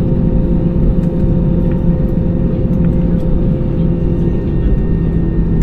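Steady low drone inside the cabin of an Airbus A320 on the ground after landing, with several steady hum tones over it. The hum tones shift slightly near the end.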